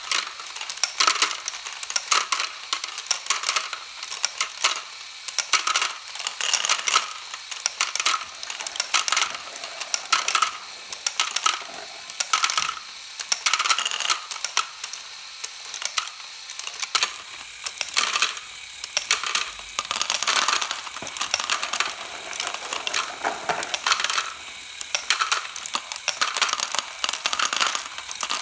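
Lego Technic ball conveyor running, its chain of engine block pieces driven by an XL motor, with plastic parts and balls clicking and clattering continuously.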